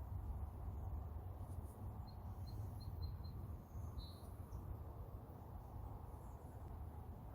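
A small bird chirping a quick run of five short high notes about two seconds in, then one more a second later, over a steady low rumble.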